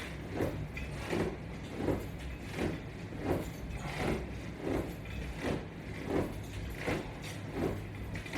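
Rhythmic swishing strokes from a person doing crunches on a floor mat while pulling on resistance-band straps, one about every 0.7 seconds, over a steady low hum.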